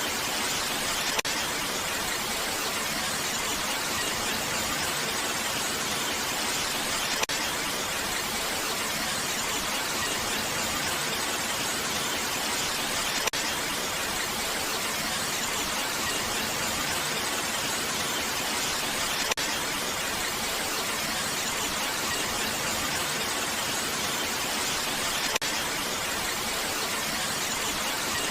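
Steady, dense rain hiss with no change in level, with a faint tick about every six seconds.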